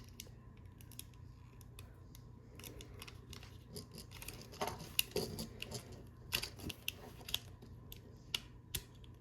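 Hard plastic parts of a Transformers action figure clicking and scraping as they are handled and pushed into place: a run of irregular sharp clicks, loudest about five and six and a half seconds in.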